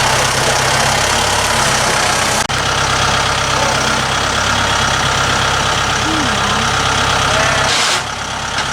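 Small gasoline engine of a Woodland Mills 126 portable bandsaw mill running steadily, its level dropping slightly about eight seconds in.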